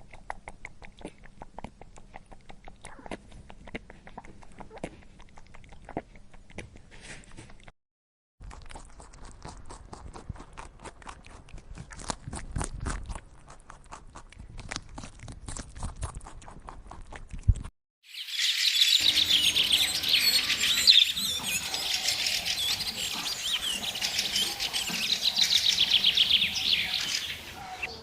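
Light clicks and taps for the first two-thirds, broken by two short silent gaps. Then many birds chirping at once, loud and continuous, for the last third.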